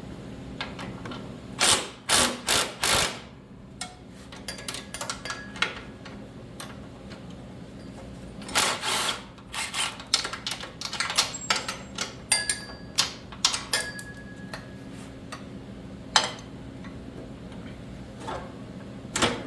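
Metal parts and hand tools clinking and knocking while the variator and drive shaft are worked out of a garden tractor's frame, with four hard knocks in a row about two seconds in and another loud bunch about nine seconds in. A faint steady hum runs underneath.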